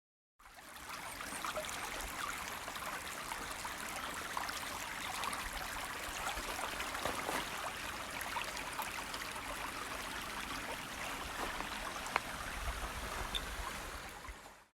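Stream water running steadily, the rush of a small creek flowing over rocks, cutting in abruptly and fading out at the end. A single sharp click sounds near the end.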